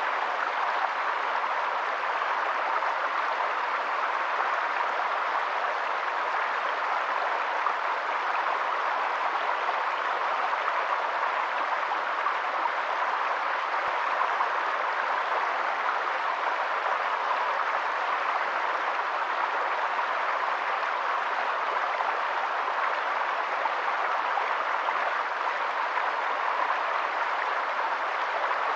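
Water rushing steadily and evenly, like a flowing stream, with no breaks or separate splashes.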